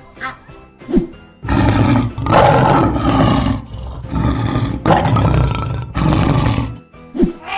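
Lion roaring: a run of loud, rough roars that starts about a second and a half in and lasts about five seconds, over background music.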